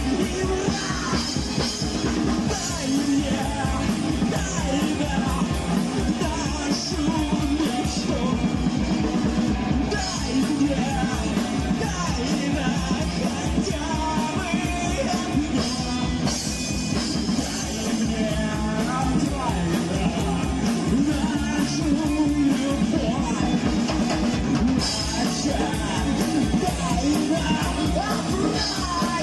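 Rock music with drum kit, guitar and a singing voice, playing steadily and loudly.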